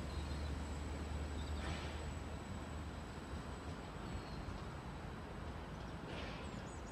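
Greater Anglia Class 745 electric multiple unit pulling away and running off into the distance, its low rumble dying down over the first few seconds.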